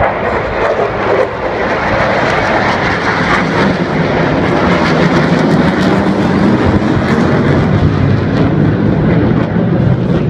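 F-16C fighter jets flying a display pass, a loud steady jet roar that grows a little louder after about two seconds.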